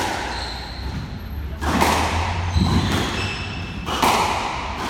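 Squash rally: the ball cracks off the racket and the court walls in sharp, echoing hits, three of them a second and a half to two seconds apart, with short high squeaks between them.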